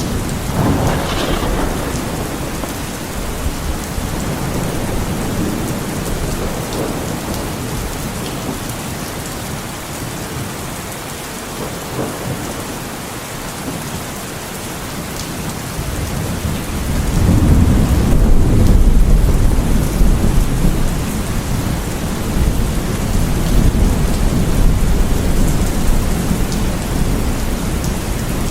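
Heavy rain falling steadily in a thunderstorm, with rolling thunder: a rumble at the start, and a louder long roll of thunder that builds about 17 seconds in and rumbles on to the end.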